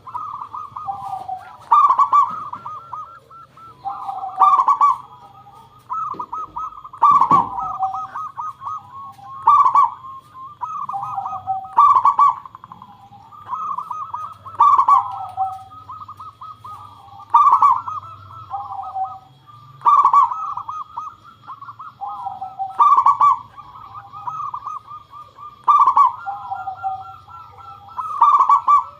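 Zebra dove (perkutut) cooing continuously: rapid warbling coo phrases, each opening with a loud note and repeating about every two and a half to three seconds. A brief low thud comes about seven seconds in.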